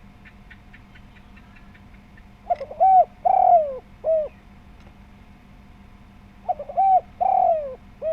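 Spotted dove cooing: two phrases about four seconds apart, each a quick stutter of short notes, then a longer falling coo and a short final note.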